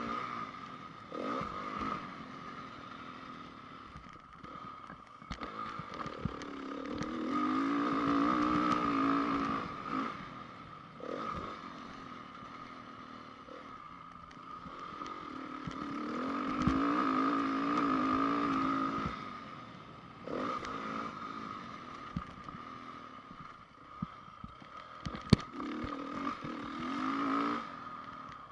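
2010 Honda CRF450 single-cylinder four-stroke motocross engine being ridden round the track, the throttle opened and closed over and over, with two longer full-throttle pulls. Short knocks and clatter from the bike over the bumps run through it.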